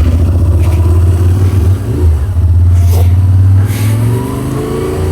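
Yamaha Ténéré 700's parallel-twin engine running under way, with a brief dip about two seconds in and its pitch rising again near the end as it accelerates.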